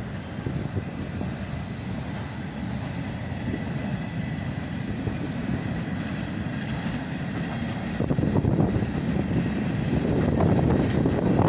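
Cars of a passing mixed freight train rolling along the rails: a steady rumble of wheels on track that grows louder about eight seconds in.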